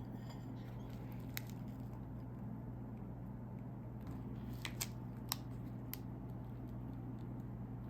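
A few sharp, separate crackles from a plastic snack wrapper being handled, over a steady low hum.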